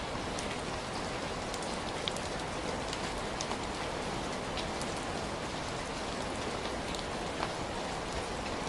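Heavy rain falling steadily, a dense even hiss with many individual drops ticking on a hard surface.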